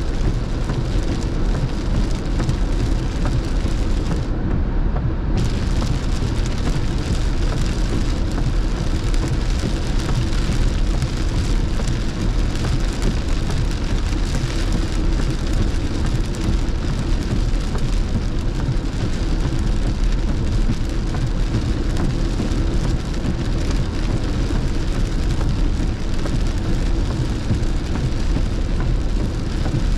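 Steady rain and wet-road noise heard from inside a moving car on a freeway in heavy rain.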